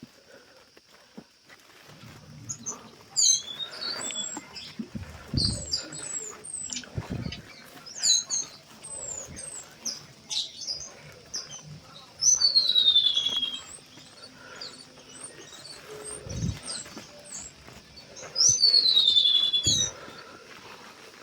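Wild birds chirping and calling, with many short rising and falling notes and two louder falling calls, over a steady high drone. A few low thumps come and go.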